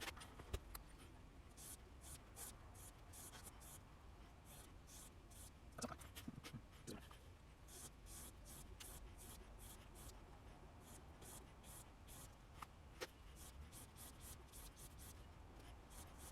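Steel broadhead blade being stroked across a sharpening surface to touch up its back edges: short, light scraping strokes, about two to three a second, in several runs with pauses between them, and a few faint knocks.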